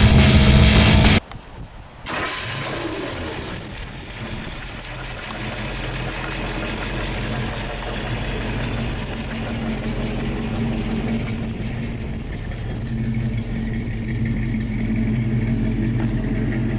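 Heavy rock music cuts off about a second in. About two seconds in, a 1960 Ford Ranchero's rebuilt, bored-over 289 cubic-inch V8 starts up and settles into a steady idle.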